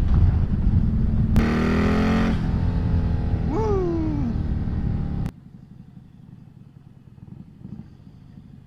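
Turbocharged Harley-Davidson 107 V-twin under way, with heavy wind noise. About a second and a half in, the engine revs up with a rising pitch for about a second as it accelerates, followed by a rider's whoop. Around five seconds in, the loud running cuts off abruptly to a faint low rumble.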